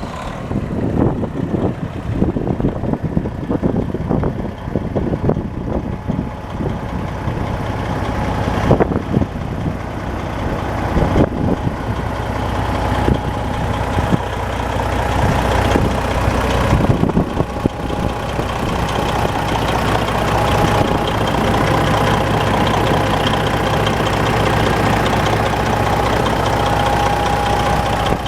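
1996 International truck tractor's diesel engine running, uneven and lumpy for the first half, then settling into a steady idle with a faint steady whine from a little past halfway.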